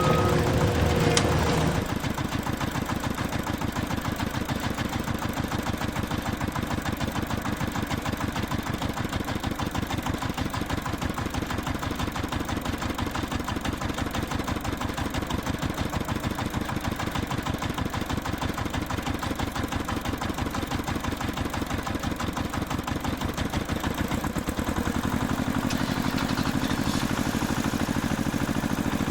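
Cartoon vehicle engine sound effect, running with a fast, even chug. Near the end a low hum joins and slowly rises in pitch.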